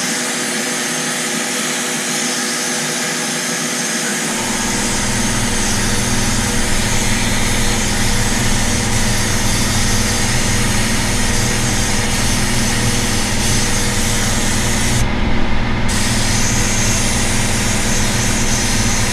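Sandblaster hissing steadily as compressed air and abrasive blast through the nozzle. About four seconds in, a motor starts and runs underneath with a low steady hum, most likely the air compressor kicking on. The blast air cuts off for about a second near the end, then resumes.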